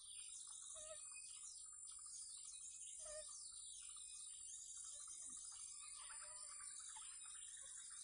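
Small birds chirping faintly, with many short falling calls overlapping throughout, over a steady high whine and a fast buzzy trill.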